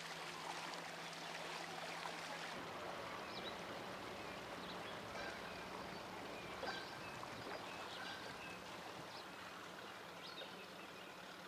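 Water washing and lapping along the hull of a small fishing boat under way, with a faint steady low hum underneath.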